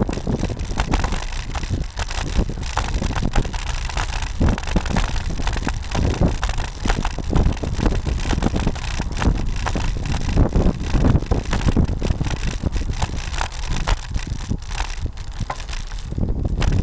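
Wind buffeting the microphone of a camera mounted on a moving road bike, with a low rumble and dense, irregular rattling knocks as the mount shakes over the road.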